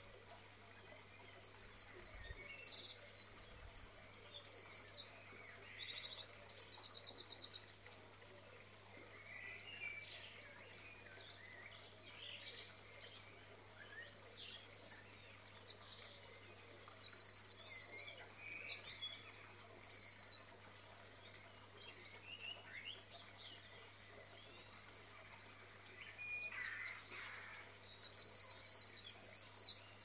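Small birds chirping and twittering in rapid high trills, coming in three bursts of several seconds with quieter stretches between, over a faint steady low hum.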